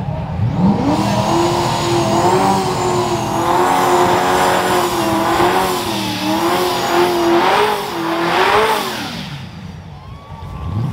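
A vehicle engine revved up hard and held at high revs for about eight seconds, the pitch wavering, then dropping back to idle near the end.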